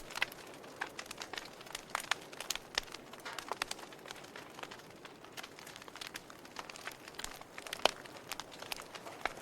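Wood fire in a fireplace crackling, with irregular sharp pops and snaps over a soft hiss of flames; one louder pop about eight seconds in.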